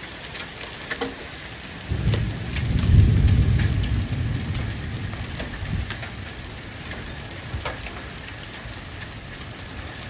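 Hail and rain falling in a storm, with scattered sharp ticks of hailstones striking over a steady hiss. A roll of thunder comes in suddenly about two seconds in, is loudest a second later and rumbles away over several seconds.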